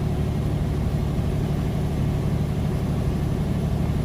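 Semi truck's diesel engine running steadily in a low gear on light throttle: an even, low drone.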